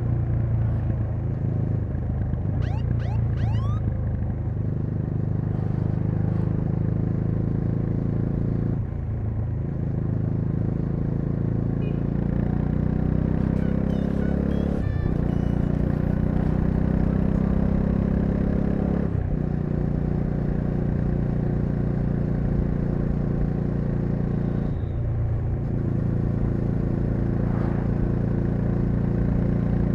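Bajaj Dominar 400's single-cylinder engine running under way, its pitch climbing and easing with throttle, with short dips at gear changes about four times.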